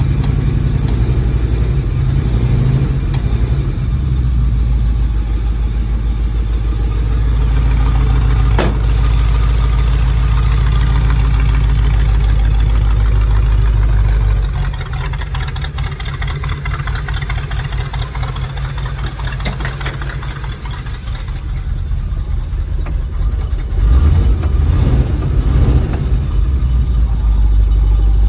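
1972 Ford Bronco's engine running steadily as it warms up after a cold start, with a sharp click about a third of the way in. The sound drops in level about halfway and grows louder again near the end.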